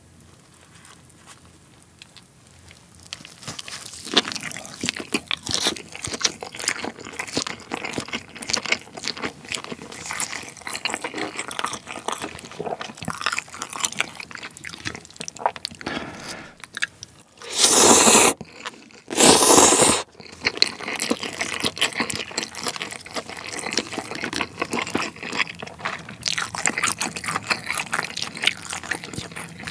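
Close-miked chewing of roast pork hock with crispy crackling skin: crunching bites and wet chewing clicks, starting after a quieter first three seconds. A little past the middle come two loud rushing noises, about a second each.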